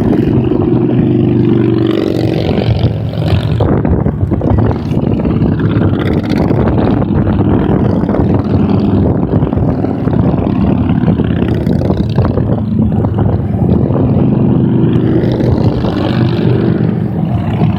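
A steady procession of motorcycles riding past on a highway, several engines running at once in a loud, continuous drone with overlapping engine notes.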